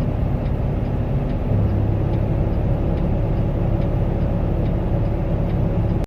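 Semi truck's diesel engine idling, heard from inside the cab, a steady low hum that gets a little stronger about a second and a half in. A faint ticking repeats about twice a second over it.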